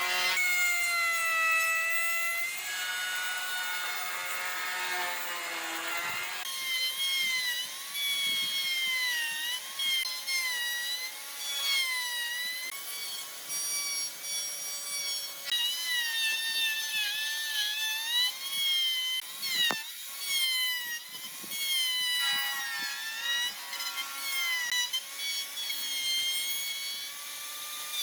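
Woodworking power tool cutting wood, its motor whine rising and falling in pitch as the load on it changes, with a few sharp clicks.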